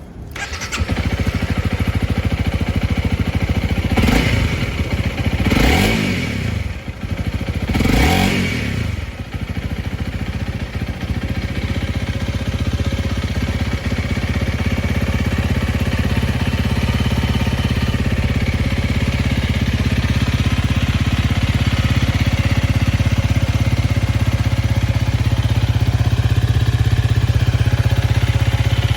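2021 Honda CRF250L's 250 cc single-cylinder four-stroke engine starting about half a second in. The throttle is blipped three times, each rev rising and falling, and the engine then settles into a steady idle.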